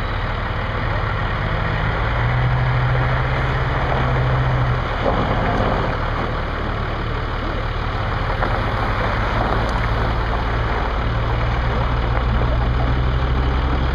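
Heavy truck engine running steadily, a low hum that shifts slightly in pitch a few times.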